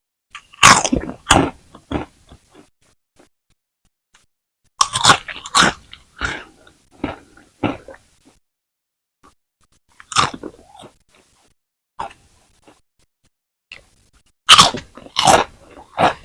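Crispy French fries being bitten and chewed, with loud, sharp crunching in four bouts separated by pauses of a couple of seconds.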